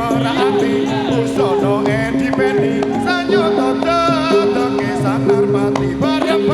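Javanese imblik folk music: a short high figure repeating about once a second over a steady held tone, with a wavering melody on top.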